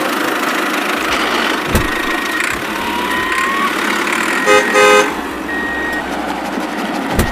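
Steady vehicle engine noise with two short horn honks about four and a half seconds in.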